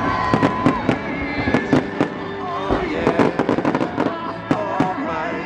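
Fireworks show going off: a quick, irregular run of sharp bangs and crackling pops, over music with singing playing along.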